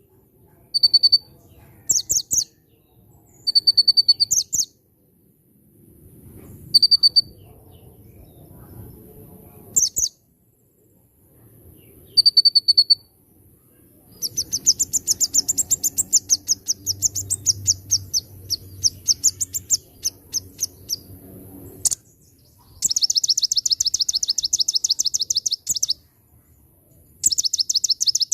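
Plain prinia (konin) singing: short, high, clipped notes at intervals, then long fast trills about halfway through and again near the end, with phrases copied from the bar-winged prinia (ciblek).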